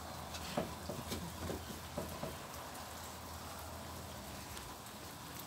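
Steady rain pattering on a wooden deck, with a few short, faint animal noises in the first couple of seconds.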